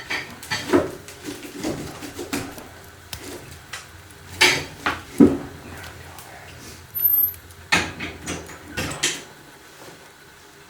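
A series of irregular knocks and clunks from firewood being handled and fitted into a wood stove.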